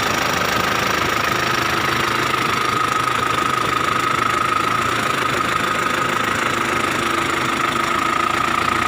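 A truck engine running steadily, close by, with a thin steady whine above the engine note.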